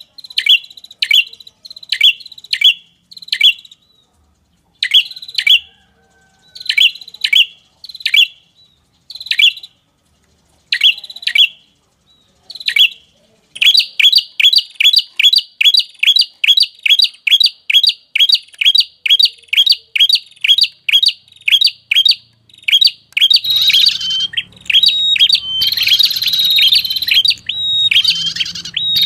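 Prenjak lure call: short, sharp chip notes that drop in pitch, repeated about one to two a second at first, then in a fast even run of about three a second from about halfway. Near the end the notes crowd together and a low hum comes in under them.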